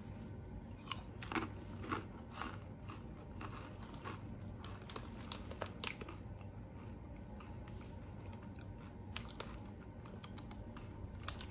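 A person chewing crunchy potato chips, with sharp crunches about twice a second that thin out after about six seconds.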